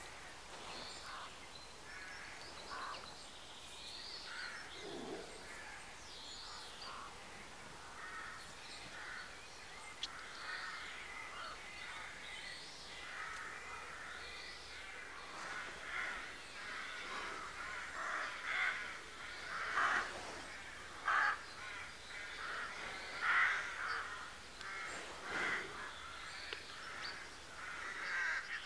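Wild birds calling in the trees: many short calls and chirps, some higher and thin, some lower and harsher, getting louder and more frequent in the second half.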